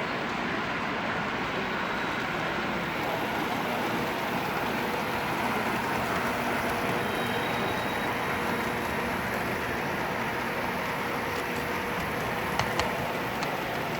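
Model train running on a show layout in a steady hall din, with two sharp clicks near the end.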